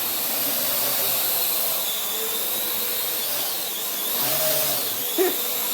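Parrot quadcopter's four electric rotors whirring steadily in flight, the high whine wavering in pitch as it manoeuvres. A brief sharp knock sounds about five seconds in.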